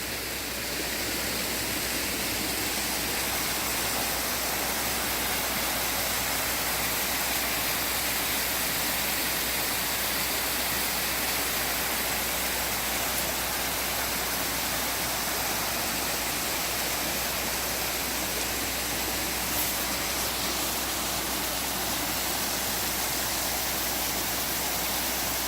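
Waterfall rushing steadily: an even wash of falling water.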